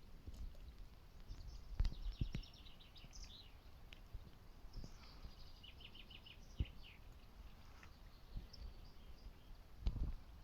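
Small birds singing in short, fast trills of repeated high notes, over a soft outdoor hiss, with a few short low thumps scattered through.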